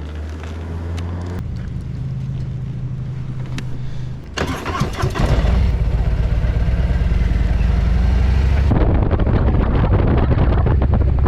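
Harley-Davidson Road King Special's V-twin engine running, steady and lower for the first four seconds, then much louder from about five seconds in as the bike pulls harder.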